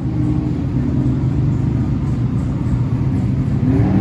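Car engine running steadily at a low, even speed.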